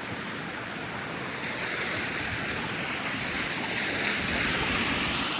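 Tyres of a passing vehicle hissing through wet slush on the road, swelling to a peak near the end and then easing off.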